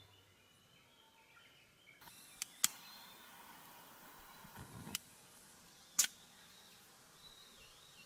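Quiet outdoor ambience with a few faint bird chirps and four sharp clicks or taps spread through it, the loudest about six seconds in.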